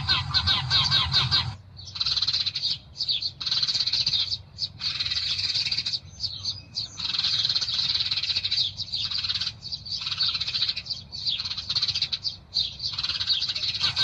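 Small songbirds chirping rapidly and densely, high-pitched, in chattering phrases a second or two long broken by short pauses.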